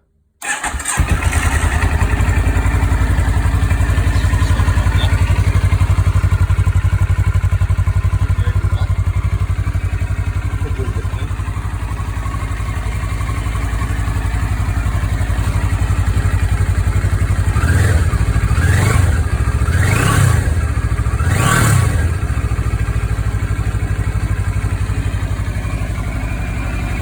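A 2013 CFMoto 650NK's parallel-twin engine, breathing through its stock muffler, starts up and settles into a steady idle. Near the end it is blipped three times in quick succession, rising and falling in pitch each time, then drops back to idle.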